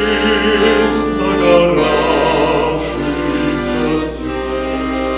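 A slow Christian hymn sung to instrumental accompaniment, with long held sung notes.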